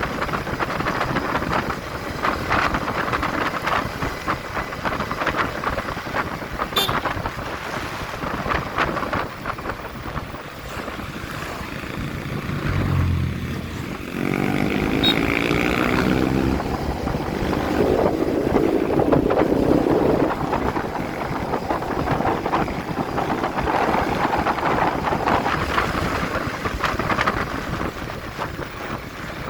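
Wind buffeting the microphone of a moving motorcycle, with road and engine noise underneath. About halfway through, an engine note rises briefly in pitch.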